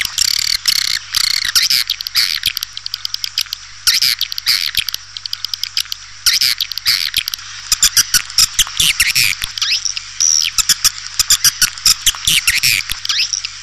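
Swiftlets twittering in rapid chittering trills and chirps, in dense bursts with brief gaps, over a faint steady hum. This is a recorded swiftlet call of the kind played to lure the birds into a nesting house.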